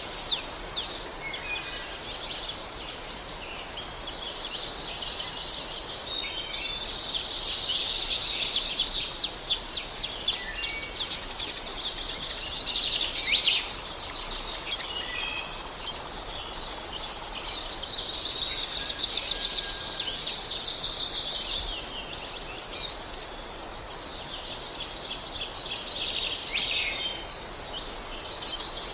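Songbirds chirping and trilling: many quick high twitters and rapid trills overlapping, swelling and easing in waves.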